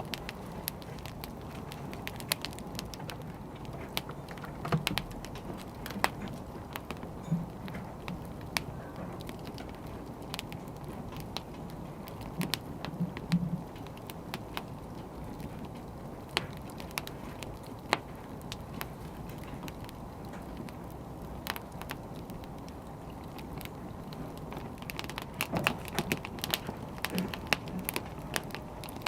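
Wood fire crackling: a steady low rush with scattered sharp pops, coming thicker near the end.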